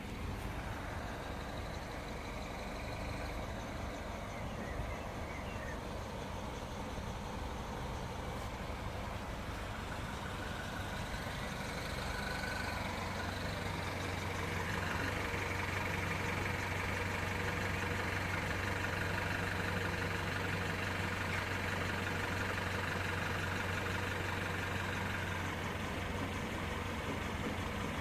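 Peugeot RCZ's 1.6 THP turbocharged four-cylinder petrol engine idling, a steady hum; about twelve seconds in it grows slightly louder and a low hum becomes stronger. It is filmed to catch an intermittent idle dip while warming up, which the owner suspects may be coil packs or the high-pressure fuel pump.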